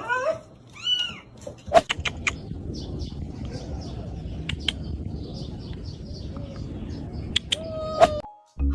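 Kitten mewing, two high arched calls in the first second, then a few sharp clicks and steady rustling for several seconds, with one short lower call near the end.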